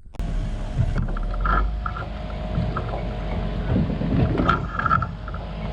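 Small aluminum boat underway, its outboard motor running steadily under wind buffeting the microphone.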